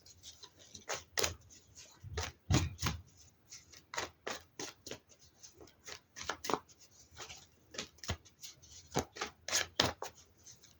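Tarot cards being handled and laid out on a table: a run of irregular light clicks, taps and slaps of the cards, a couple or so every second.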